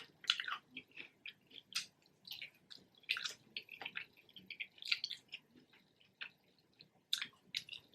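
Close-up chewing of crispy spicy fried chicken: irregular crackly, wet mouth sounds with a brief pause about two-thirds of the way through.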